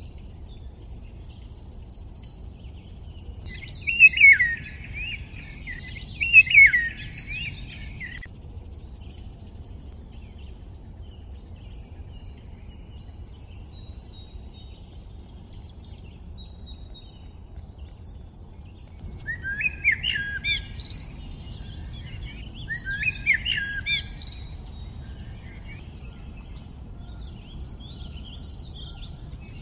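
Birdsong: songbirds sing short, quickly sweeping phrases, two of them about four and six seconds in and two more around twenty and twenty-three seconds in, with fainter chirps between. A steady low background hum runs underneath.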